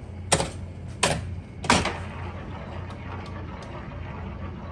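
1935 Evans Roll-Ette coin-op game mechanism being played: three sharp clacks in the first two seconds, then a steady low rumble with a few light ticks.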